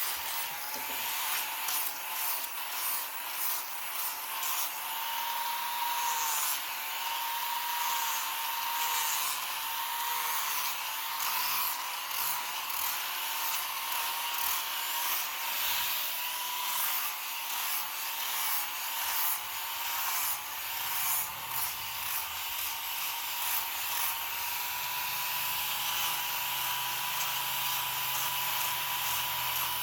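Small electric carving tool running with a steady whine that dips slightly in pitch as it bites into wood, with repeated short scraping strokes of the cutter against the wood.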